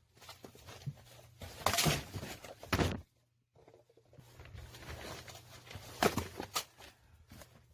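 Several separate knocks and thuds from firewood being worked, the loudest a longer crack near two seconds in. It cuts to silence for a moment just after three seconds, and two more knocks follow around six seconds.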